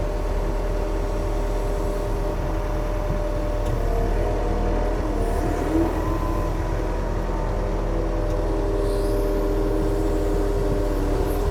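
Yanmar machine's diesel engine running steadily, with a steady whine whose pitch shifts slightly around the middle.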